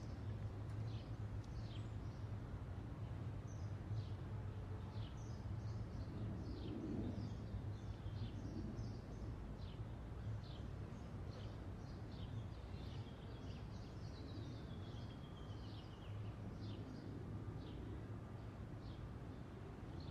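Small birds chirping over a steady low background hum. The short, high chirps come several a second, with one longer falling call about fourteen seconds in.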